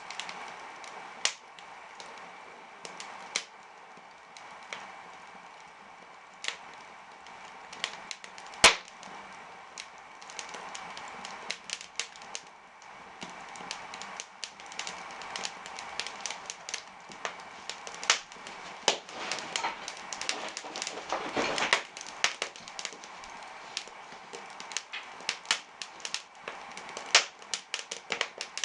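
Firewood catching in an open brick fireplace, crackling with many irregular sharp snaps and pops over a low hiss. One pop about nine seconds in is much louder than the rest, and the crackling thickens a little past twenty seconds.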